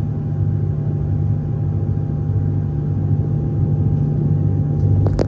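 Inside a Queensland Rail suburban electric train running: a steady, loud low rumble with a faint steady whine over it, and a few clicks near the end.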